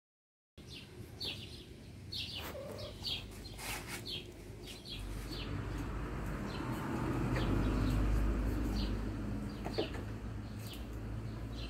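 Small birds chirping in short, repeated high notes, with a low rumble that swells about halfway through and then eases.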